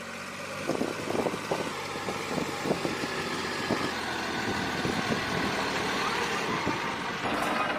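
A tractor's diesel engine running, with irregular clattering knocks from about a second in.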